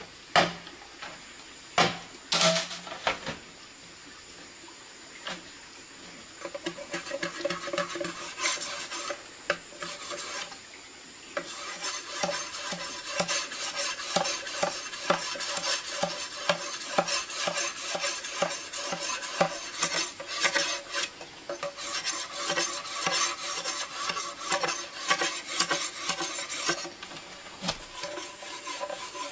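A metal utensil stirring and scraping inside a metal cooking pot, with a ringing tone from the pot. A few separate knocks come first, then quick repeated strokes start and grow louder about a third of the way in.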